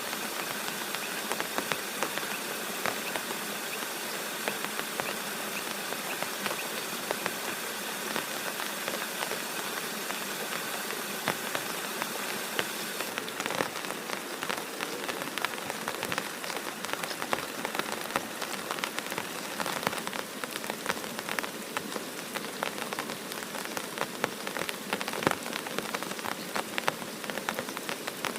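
Steady rain falling, with many separate drops ticking on a surface; about halfway through the sound shifts and the drops stand out more distinctly.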